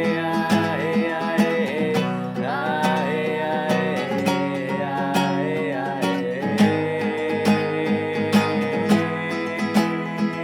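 Music: a strummed acoustic guitar keeping a steady rhythm, with a wordless sung melody gliding over it.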